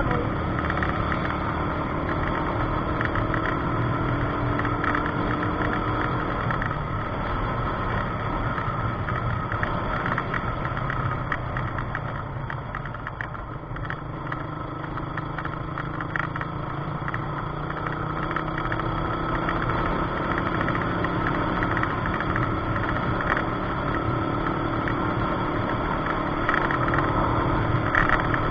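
Car engine and road noise while driving, the engine note slowly rising and falling with speed, with a single sharp knock right at the start.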